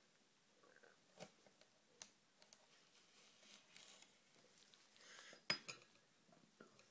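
Quiet handling of a knife and plate: a few light clicks and knocks, the loudest about five and a half seconds in.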